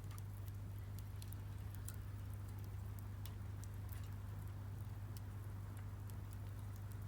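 Split firewood burning in a Solo Stove Campfire, crackling with scattered sharp snaps and pops at irregular intervals over a steady low hum.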